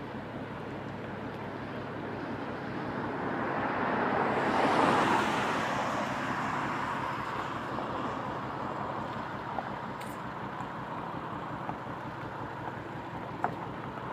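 A passing vehicle: a rushing noise swells to a peak about five seconds in and then slowly fades, over a steady low hum.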